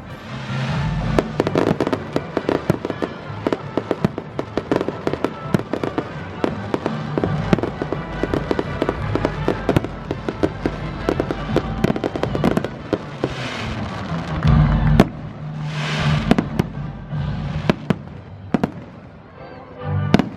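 Aerial fireworks display: rapid sharp pops and crackling bursts, with a heavy low boom about fifteen seconds in and a few hissing crackle showers around it.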